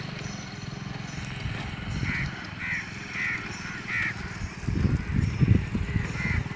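A bird calling four times in a row, short calls a little over half a second apart, with low rumbling noise near the end.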